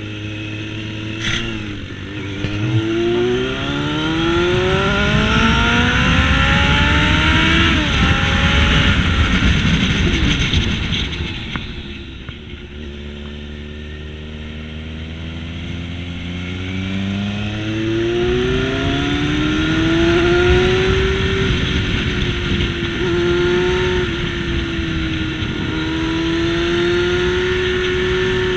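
Motorcycle engine under way, its pitch climbing under throttle to a gear shift about eight seconds in, falling away as the throttle closes around twelve seconds, then building again and holding fairly steady near the end, with wind rush over the microphone.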